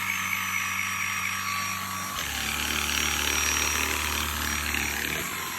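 Dibea FC20 cordless stick vacuum running with a steady high whine and hum. About two seconds in its tone changes and a louder rush of airflow comes in for about three seconds.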